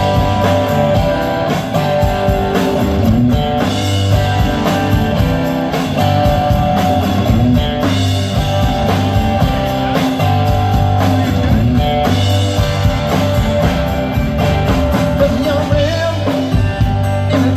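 Rock band playing a passage with electric guitar, bass and drum kit, with no sung words.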